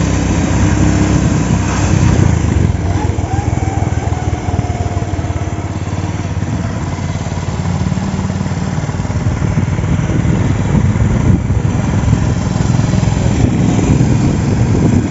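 Motorcycle engine running steadily, with a constant low rumble.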